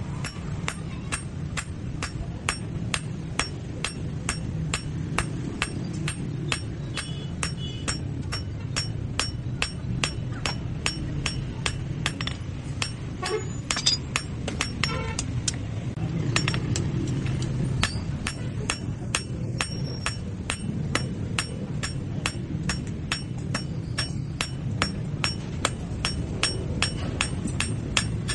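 Hammer blows on steel at the anvil, a steady rhythm of about two strikes a second, over a steady low hum.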